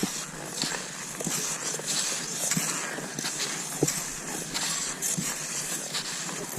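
Cross-country skis gliding over snow in a steady stride rhythm, with a swish about every half second and a sharp knock about every second and a half.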